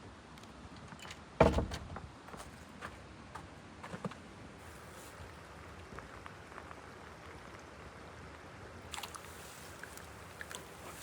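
A single loud knock about a second and a half in, ringing briefly, then scattered light clicks and taps over faint steady background noise.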